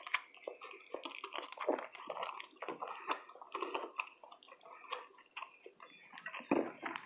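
A person chewing a mouthful of fish close to the microphone, with irregular wet smacks and small clicks.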